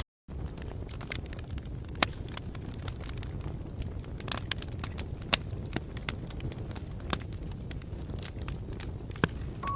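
Wood fire crackling: a steady low rumble with scattered sharp pops and snaps, the sharpest about two seconds and five seconds in. It starts after a split-second gap of silence.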